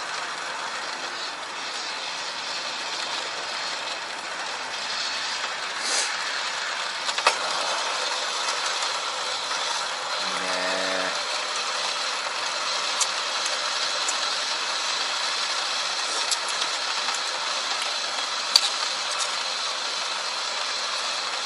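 Wood bonfire burning: a steady hiss with a few sharp crackles and pops scattered through it. There is a brief low hum about halfway.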